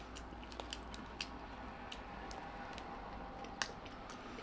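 Quiet chewing of crunchy snack fries, with a few scattered sharp mouth clicks and crunches, the loudest about three and a half seconds in.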